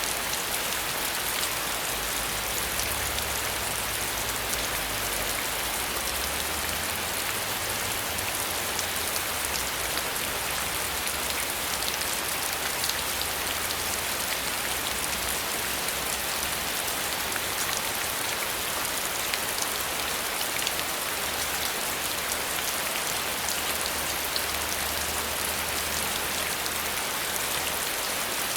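Steady rain falling and pattering on a surface, a dense even hiss with many small drop ticks, with a faint low rumble underneath.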